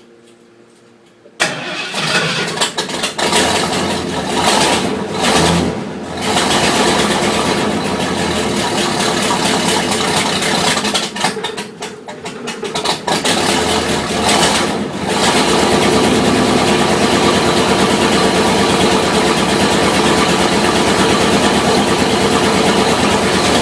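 1986 Ford F250's engine cold-starting at the exhaust pipe. It catches suddenly about a second and a half in, runs unevenly with several sags over the next dozen seconds, then settles into a steady run.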